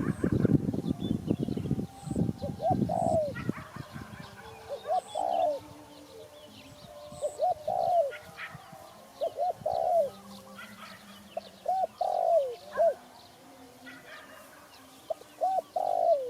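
Spotted dove cooing: repeated phrases of a few short coos ending in a longer, arched coo, coming every two to three seconds. The first couple of seconds are covered by a dense rustling noise, and faint chirps of small birds sound behind.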